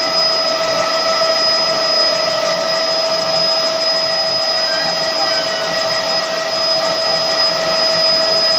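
Helicopter turbine engine and rotor running steadily: a constant high whine over an even rushing noise.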